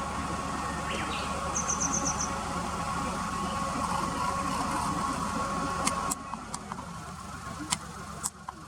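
A steady machine hum with a thin whine, which drops away about six seconds in. Near two seconds in, a grey wagtail gives a quick run of about six high, thin call notes, and a few sharp ticks follow near the end.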